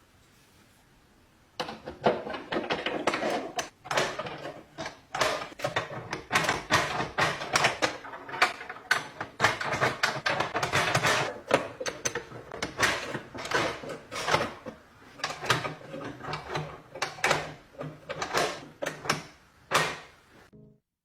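Door lock being worked by hand: a dense, irregular run of sharp metal clicks and knocks, starting about a second and a half in and stopping just before the end.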